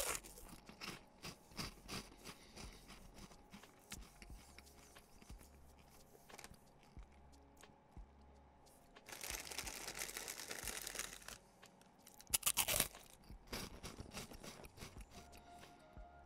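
A person eating Walkers Monster Munch pickled onion corn crisps, faint crunching and chewing in small irregular clicks. There is a longer rustling stretch about nine seconds in and a louder burst a little past twelve seconds.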